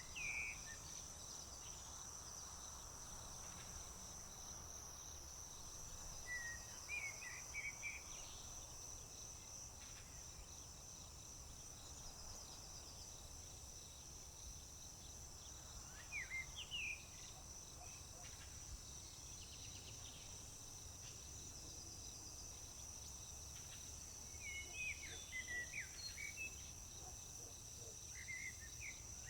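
Crickets trilling in a steady, high, unbroken chorus, while a songbird sings short bursts of song about five times, several seconds apart, over a low rumble.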